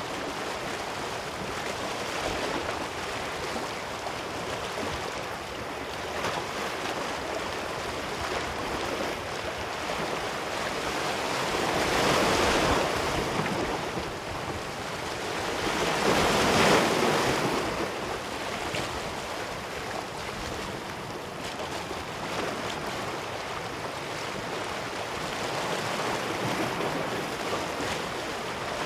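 Ocean waves breaking and washing up on a beach, a steady surf wash with two larger waves swelling and breaking about 12 and 17 seconds in.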